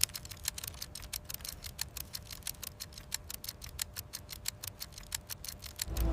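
Rapid, even ticking, about nine ticks a second, over a faint low hum, like a clock or mechanism sound effect; music swells in just at the end.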